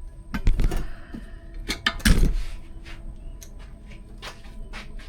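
A series of sharp clicks and knocks from objects being handled, with two heavier thumps about half a second and about two seconds in.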